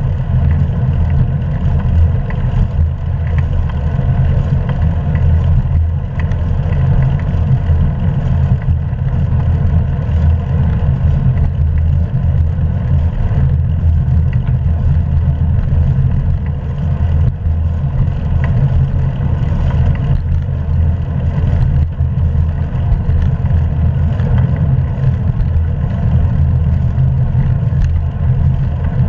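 Wind rushing over a GoPro camera's microphone on a moving bicycle: a loud, steady, low rumble without a break.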